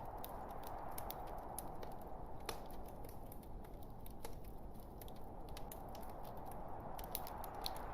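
Log fire burning in a fireplace: a steady hiss with many small, irregular crackles and pops from the burning wood.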